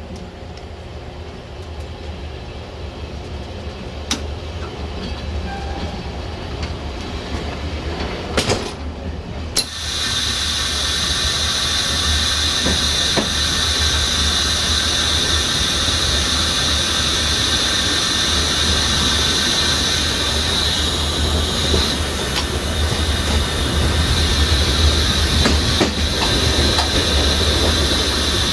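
A train running on the rails: a steady low rumble with a few single clicks, growing louder. About ten seconds in, a loud, steady high-pitched hiss and squeal sets in and holds.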